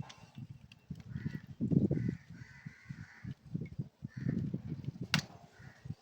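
Crows cawing, several short harsh calls, over low rumbling handling noise, with one sharp click about five seconds in.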